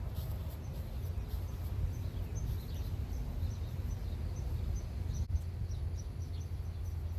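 Wind rumbling on the microphone outdoors, with a bird chirping in short high notes a few times a second from about two seconds in.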